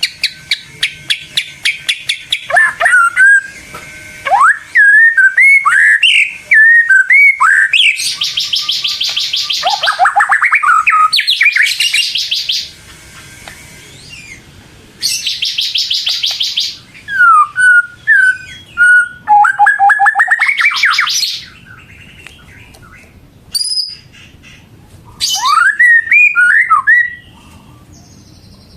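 White-rumped shama (murai batu) singing loudly in varied bursts: rising and falling whistled notes mixed with fast buzzing rattles, with a few short pauses between phrases.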